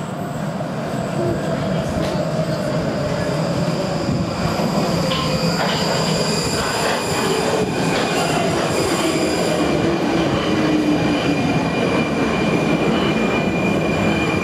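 Prague Metro train running and slowing, with a motor whine that falls in pitch and wheels squealing on the rails.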